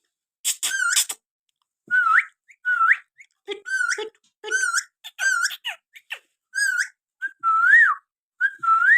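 Pet parrot giving a run of short whistled calls, about a dozen notes in quick succession, each hooking upward in pitch at its end.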